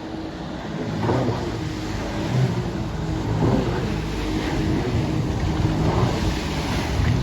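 Motorboat engine running steadily, with the rush of wind and water around the boat.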